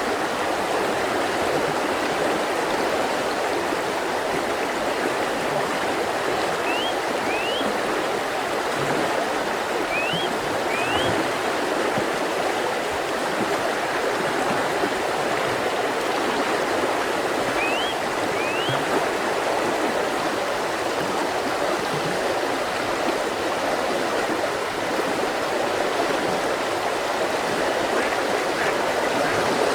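Mountain river flowing steadily over rocks. A bird gives short rising whistles in pairs, three times, at about a quarter, a third and two thirds of the way through.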